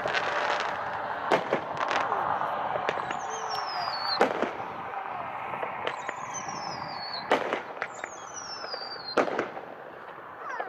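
A 200-gram consumer fireworks cake, a 12-shot floral, firing its shots. Sharp bangs come every second or two, and three high whistles fall in pitch, each ending in a bang.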